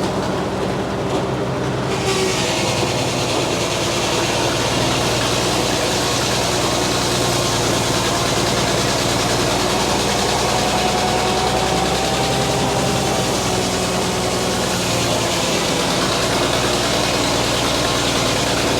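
Frick sawmill running steadily: the drone of its power unit under the spinning circular saw. About two seconds in, a hiss comes up and holds as the blade cuts through a poplar log.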